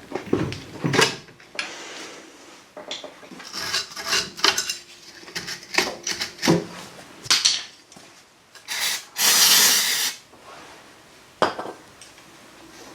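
Hand tools and metal car parts clanking, knocking and scraping in irregular bursts, with a longer, louder scraping rush lasting about a second about nine seconds in.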